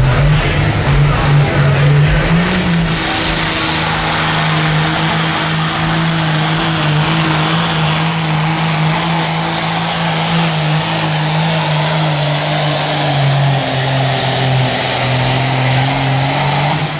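Competition pulling tractor's engine running flat out under load, dragging the weight sled down the track. A loud, steady drone that rises briefly about two seconds in, then holds level until it drops off at the very end.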